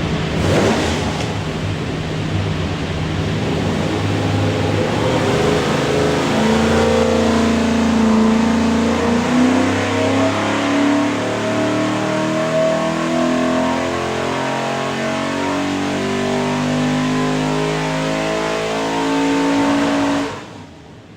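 Stack-injected 363 cubic-inch small-block Ford V8 running hard on an engine dyno during a power run. It starts abruptly and stops abruptly near the end.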